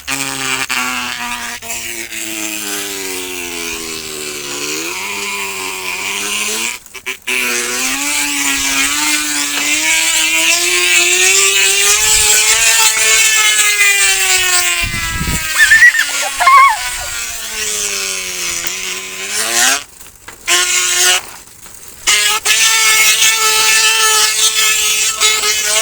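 A small motor running hard, its pitch gliding up and down. It cuts out briefly about seven seconds in and twice more near the end.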